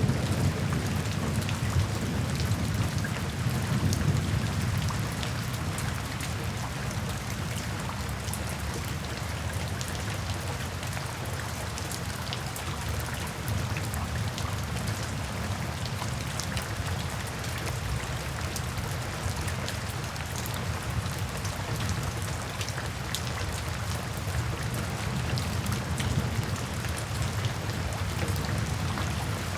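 Steady rain with individual drops ticking on a surface, under a low rolling rumble of distant thunder that swells near the start and again near the end.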